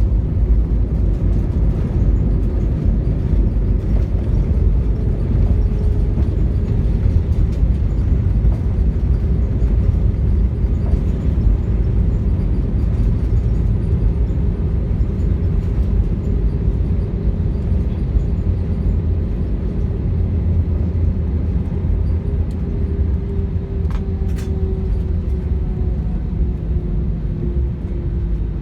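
Airbus A320 cabin noise: a deep, steady rumble of the engines and rushing air, with a humming tone that slowly falls in pitch over the last few seconds.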